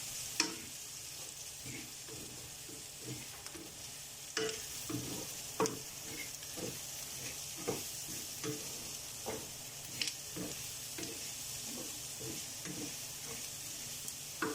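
Onions, raisins and boiled chana dal sizzling steadily as they fry in a little olive oil, with a spoon scraping and knocking against the pan again and again as the mixture is stirred.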